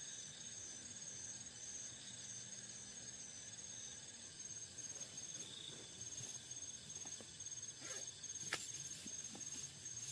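Insects trilling in a steady pulsing chirp, with a few sharp taps near the end.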